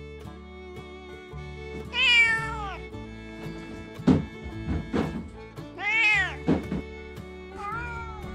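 Calico cat meowing three times, each call falling in pitch, the first loudest and the last quieter, with a few sharp knocks between the calls, over background music.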